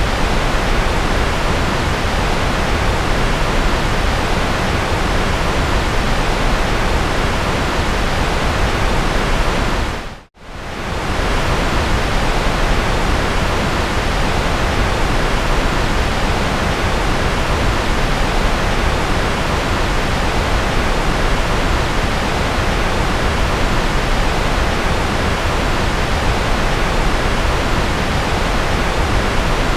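Steady electronically generated noise, an even hiss with a low rumble underneath. About ten seconds in it fades briefly to near silence and swells straight back.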